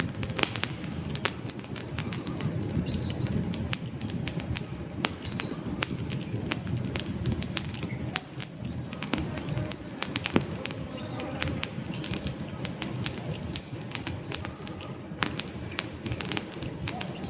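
Wood campfire burning, with frequent sharp crackles and pops from the logs over a steady low rush of flame. A few faint bird chirps are heard now and then.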